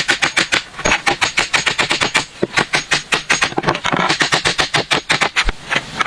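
A rapid, even run of sharp knocks or clicks, about seven a second, with a short break near the end.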